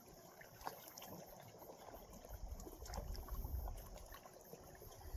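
Faint wind and water ambience: wind rumbling on the microphone, strongest in the middle, over gentle water lapping, with a few light clicks.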